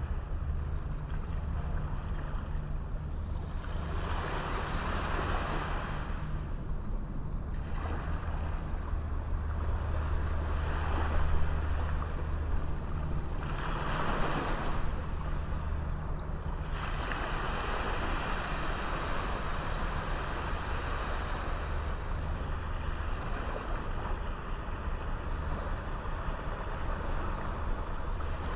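Small sea waves breaking and washing up on a beach, coming in several surges in the first half and then as a steadier wash, over a low steady rumble.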